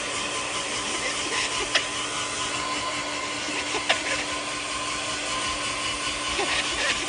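Hair dryer running steadily, a rushing blow with a steady motor whine. Two brief sharp clicks sound about two and four seconds in.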